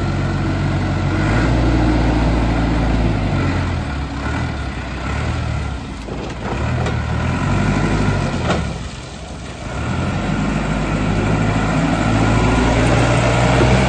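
A 1997 Hyster forklift's Perkins diesel engine running, its engine speed rising and falling: picking up early, easing off twice in the middle, then revving up again near the end. A single sharp click comes a little past halfway.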